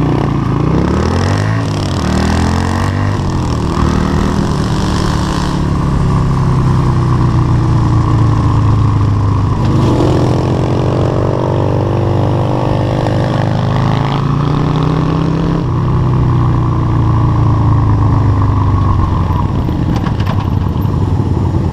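Motorcycle engines of a Yamaha Virago 250 bobber and an SSR 125 pit bike accelerating hard from a standing start. The revs climb and drop through several gear changes in the first few seconds, then run fairly steady. They climb again about ten seconds in and ease off around sixteen seconds.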